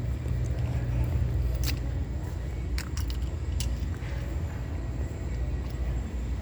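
Handling and walking noise on a handheld recording: a steady low rumble with a few light clicks scattered through the middle.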